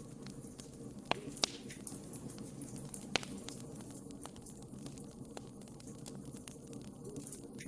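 Wood fire burning in a fireplace: a steady low hiss and rumble of flames with scattered sharp crackles and pops, the loudest about a second and a half in and again about three seconds in.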